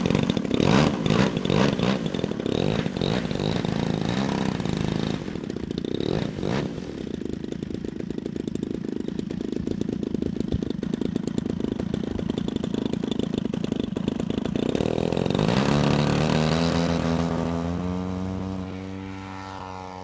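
Engine of a Seagull Edge 540 radio-controlled aerobatic model plane running hard in flight. Its pitch shifts over the last few seconds as it flies past, and it fades near the end.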